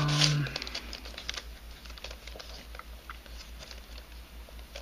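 Light, irregular clicks and rattles of a 3D-printed nylon helicopter cube puzzle being twisted and handled.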